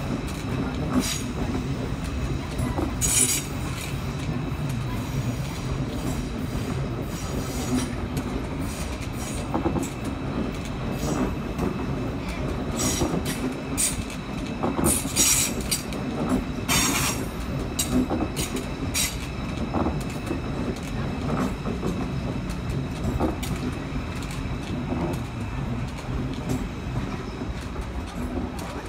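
Deutsche Bahn ICE 4 high-speed train rolling slowly past on the tracks: a steady low rumble of wheels on rail, with several short high wheel squeals and clicks, bunched about halfway through.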